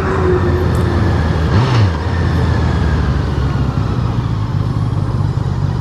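Honda CBR650R's inline-four engine running steadily at riding speed, under a steady rush of wind and road noise.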